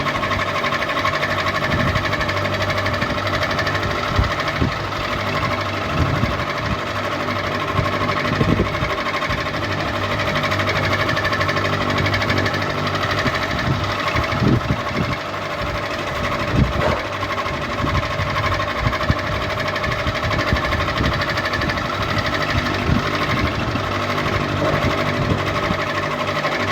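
Electric ceiling fan running steadily: a constant motor hum with a few higher whining tones on top, and an occasional short knock or click every few seconds.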